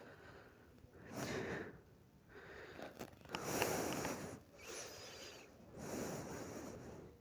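A person breathing near the microphone, several breaths a second or two apart.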